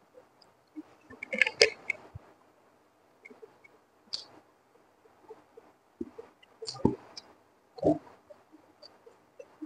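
Close-up eating sounds of fried rice eaten by hand: wet chewing and mouth clicks, loudest about a second and a half in, with further short clusters around four, seven and eight seconds.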